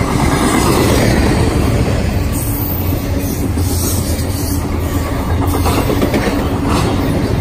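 Double-stack intermodal freight cars rolling past close by: a loud, steady rumble of steel wheels on the rails, with brief high-pitched wheel squeals now and then.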